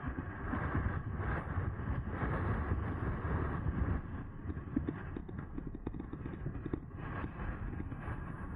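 Riding noise from an electric bike: wind rushing over the microphone and tyre rumble, with frequent small clicks and knocks from the bike rattling over the surface.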